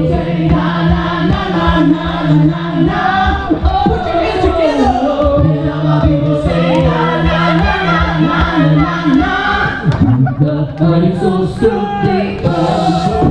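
An a cappella vocal group singing in harmony, with a bass voice holding long low notes under the upper parts.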